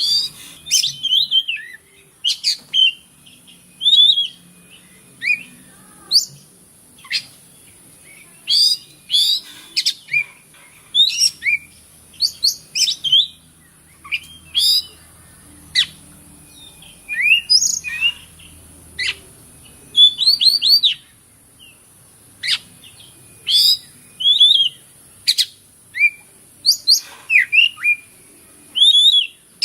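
An oriental magpie-robin (kacer) singing: quick, varied whistled phrases and chirps in short bursts every second or two, with brief pauses between them, over a steady high hiss.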